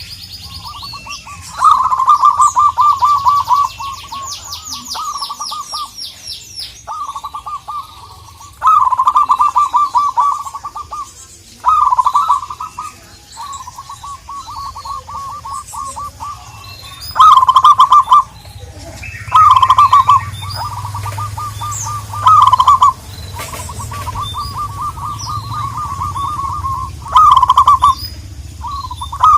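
Zebra doves calling: phrases of rapid staccato cooing notes, loud short bursts of about a second from a close bird alternating with fainter, longer rolling phrases. Thin high chirping runs over the top, densest in the first few seconds.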